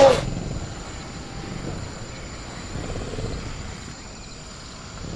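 Sound-designed velociraptor call: one short, loud pitched shriek right at the start, followed by low rumbling growl-like noise. A steady high cricket drone runs underneath.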